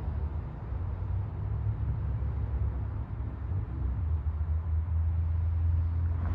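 Low, steady rumble of wind on the microphone during an approaching thunderstorm, growing slightly louder in the second half.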